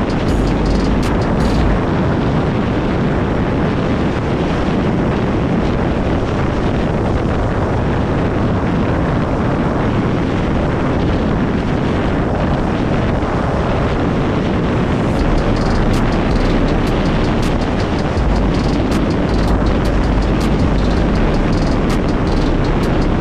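Kymco 50 cc two-stroke scooter being ridden, its engine running steadily under heavy wind noise on the microphone.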